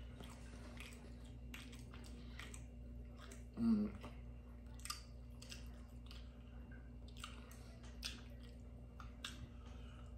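Close-miked chewing of spicy ramen noodles, with many short wet mouth clicks and smacks. There is a brief hummed "mm" a little over three and a half seconds in.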